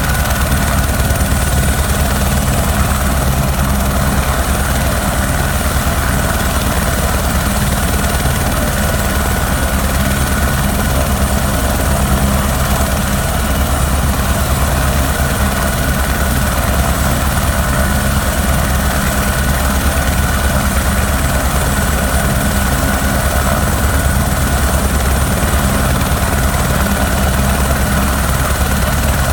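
Sheriff's helicopter turbine and rotor running steadily, a loud constant drone with a fast rotor beat underneath and no change in pitch.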